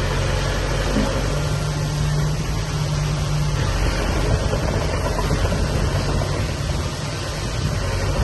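Diesel engine of heavy earthmoving machinery running steadily with a low drone and a hissy noise over it. The engine note shifts about three and a half seconds in.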